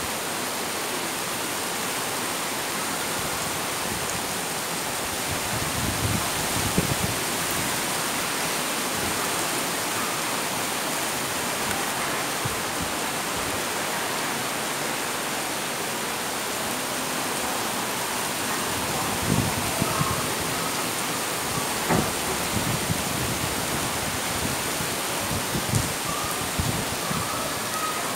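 Heavy rain pouring down in a steady, dense hiss on pavement, trees and rooftops. A few brief low thumps stand out now and then.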